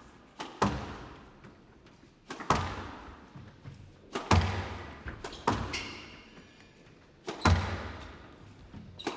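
Squash rally: the rubber ball struck hard by rackets and smacking off the court walls, a sharp crack every second or two, each ringing out with a long echo in a large hall.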